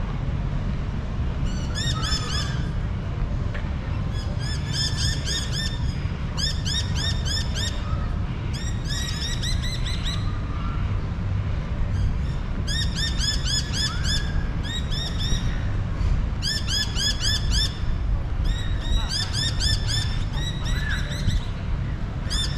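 Birds chirping in quick bursts of high, rapid calls, each bout lasting about a second and coming every second or two, over a steady low rumble.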